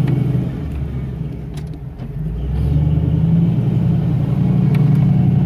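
Off-road vehicle's engine running on a trail, its drone easing off about half a second in and building back up at around two and a half seconds.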